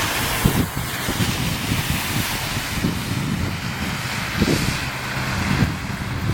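Gusty wind buffeting the microphone in irregular low thumps, over the steady rolling noise of a passing freight train.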